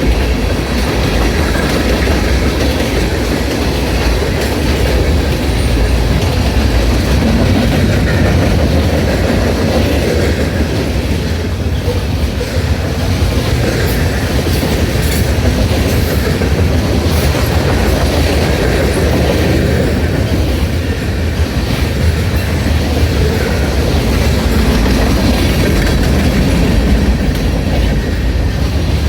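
Norfolk Southern freight train cars rolling past, with a steady loud rumble of wheels clicking over the rail joints.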